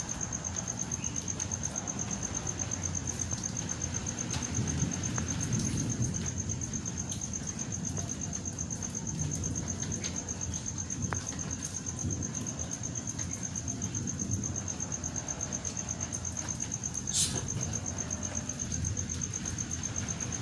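A cricket chirping in a continuous, rapid, high trill, over a low steady rumble. A single sharp click sounds about 17 seconds in.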